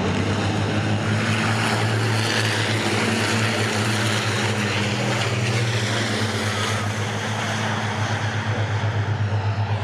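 Diesel engines of racing trucks going past on the circuit: a steady low drone under a rush of engine and tyre noise that swells through the middle and ebbs, turning into an even pulsing near the end.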